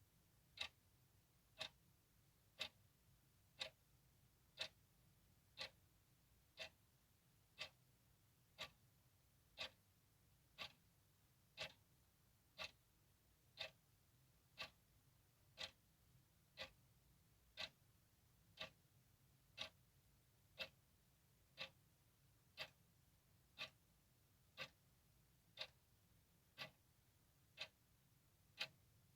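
Clock ticking steadily, one sharp tick each second, with near silence between ticks.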